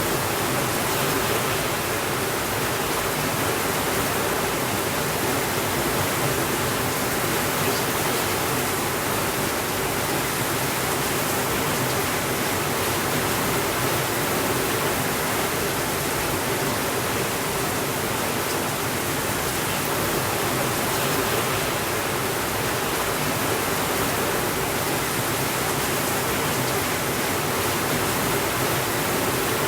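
Steady, unbroken rainfall, an even hiss with no thunder.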